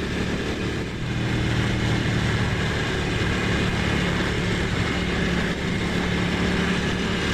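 Ducati Monster's L-twin engine running at a steady pitch under an even rushing noise, growing a little fuller about a second in.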